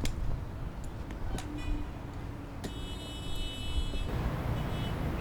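Low, steady traffic rumble, with a high, horn-like toot held for about a second and a half a little past the middle.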